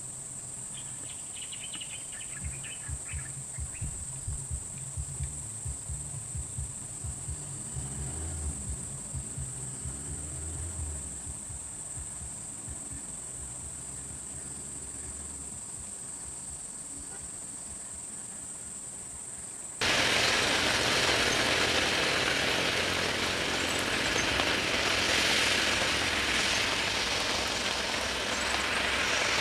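Insects buzzing as a steady high-pitched drone, with low knocks underneath, cutting off suddenly about two-thirds of the way in. In its place comes a loud, even rushing noise, like wind or a running vehicle.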